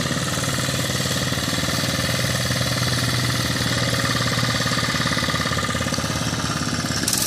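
Mini bike's small single-cylinder engine running steadily at idle, with the choke set at half.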